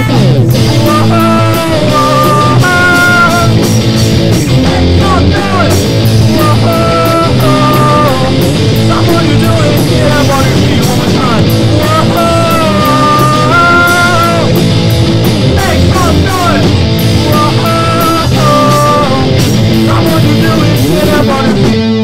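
Live rock band playing loudly: drums, bass and guitar under a bending lead melody line.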